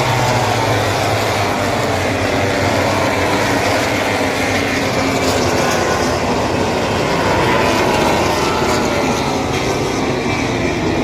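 MotoGP racing motorcycle engines running at high revs, their pitch falling in long glides as bikes sweep past, one after another, over a steady mechanical din.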